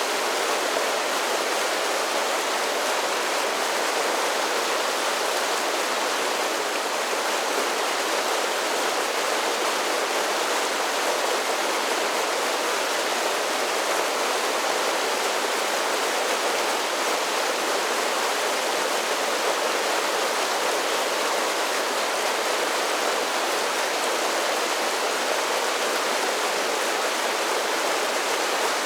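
Mountain creek water cascading down a series of small falls: a steady, even rush of water.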